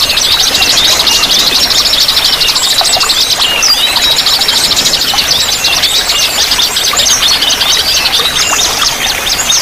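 Several small songbirds singing over one another: rapid buzzy trills and repeated short down-slurred chirps, against a steady hiss of running water.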